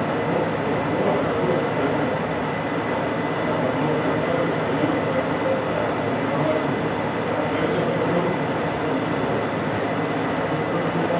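Steady machine-shop noise: a metalworking machine running continuously, with no pauses or impacts.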